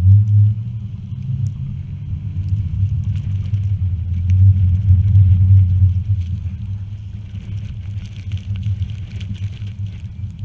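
Hummer H3 driving on snow-covered roads: a steady low rumble of engine and tyres, swelling about four seconds in and easing off toward the end.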